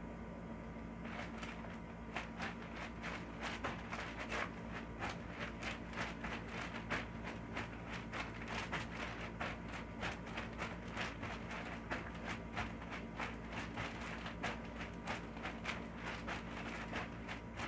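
A quick, uneven run of sharp taps or knocks, a few a second, starting about a second in, over a steady low hum.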